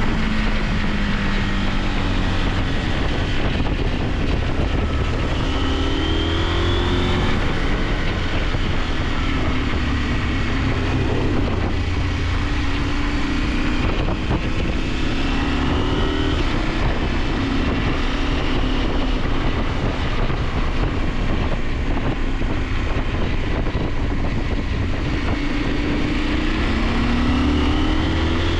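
KTM 890 Adventure's parallel-twin engine running under way, its revs rising and falling several times as the bike accelerates and eases off, with steady wind rush over the microphone.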